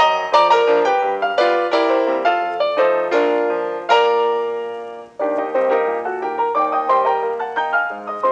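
Solo piano music playing a quick melody of struck, decaying notes, with a brief pause about five seconds in.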